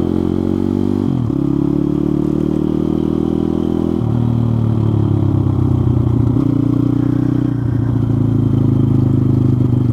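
Pitster Pro pit bike's single-cylinder engine running under way, its note stepping down and up several times as engine speed changes.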